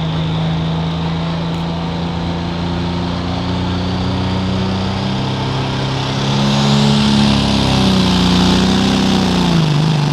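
Turbocharged diesel engine of a 1997 Dodge pickup pulling a sled under heavy throttle. The engine note holds steady, rises in pitch a little past the middle, then drops near the end.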